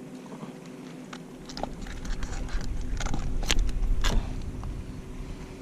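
Knocks, clicks and rustling as a redfish is landed and handled in a kayak, with two sharp knocks near the middle over a low rumbling of the boat and microphone being bumped.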